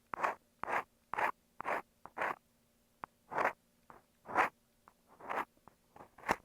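Ear pick scraping over an earphone microphone in about nine short, separate strokes, with a few small clicks in between.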